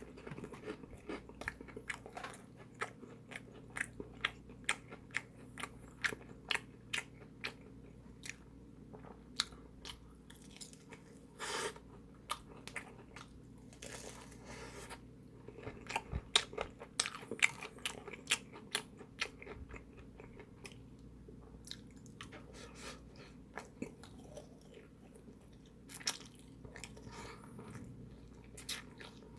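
Close-miked chewing of crispy fried food: sharp crunches of the coating between quieter chewing, busiest about halfway through, over a faint steady low hum.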